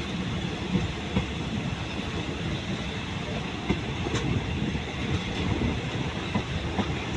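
Train rolling along the track: a steady low rumble with the wheels knocking irregularly over the rail joints.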